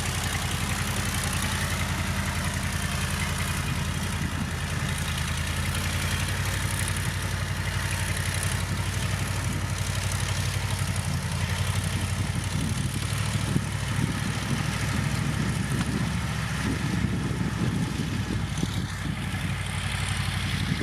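Diesel engine of a heavy road-building machine running steadily at low revs, an even deep engine hum.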